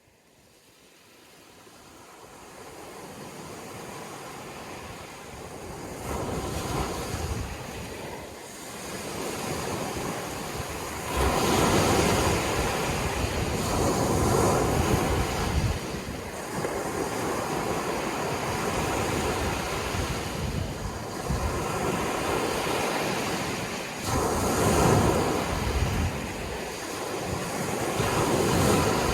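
Sea waves breaking, the wash swelling and easing in repeated surges. It fades in from near silence over the first few seconds.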